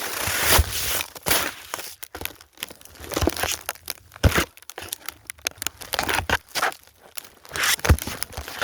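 Snow crunching in an irregular string of short crunches, as it is stepped on and handled.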